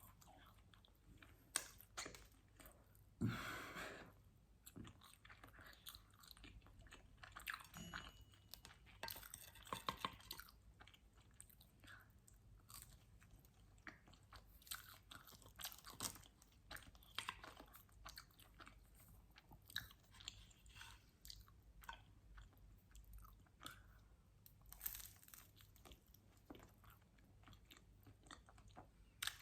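Close-miked chewing of pizza: soft, irregular wet mouth clicks and smacks, with a couple of louder bites, one about 3 seconds in and one near the end.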